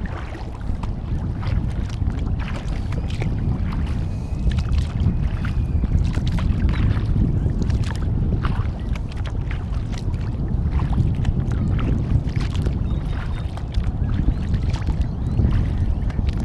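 Kayak paddle strokes in lake water, with small splashes and drips scattered throughout, over a steady low rumble of wind on the microphone.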